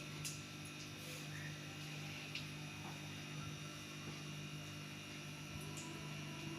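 A steady low hum over a faint hiss, with a few tiny ticks.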